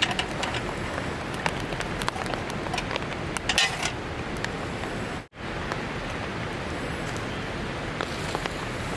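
Steady rain falling, an even hiss with scattered sharp drops ticking. A brief louder splash of noise comes about three and a half seconds in.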